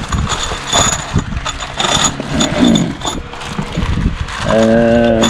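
Metallic clinks of bolts and tools being handled on the engine, each with a short bright ring. Near the end comes a steady pitched hum lasting under a second.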